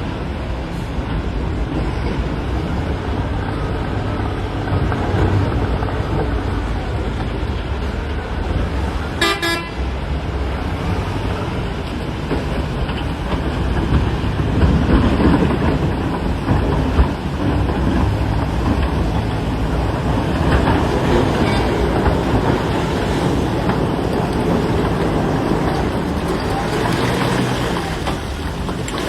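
Heavy wheel loader engine running steadily under load, with a short horn toot about nine seconds in.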